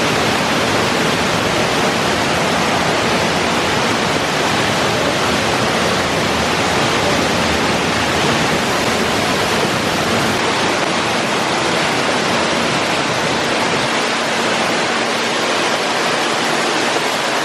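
Large waterfall inside a cave, a loud, steady rush of falling water.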